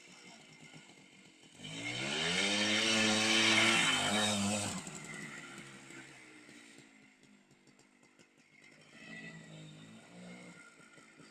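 Minsk two-stroke single-cylinder motorcycle engine accelerating hard, loud for a few seconds and rising in pitch, then fading with a falling tone as it moves off. A fainter burst of the engine comes again near the end.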